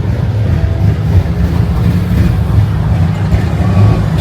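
A vehicle engine running close by: a loud, steady low rumble.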